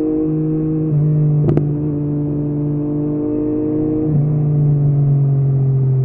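Yamaha MT-09's inline three-cylinder engine with an Akrapovic exhaust running at low, steady revs in city riding. The engine note dips slightly about a second in and again about four seconds in. There is a short sharp click about a second and a half in.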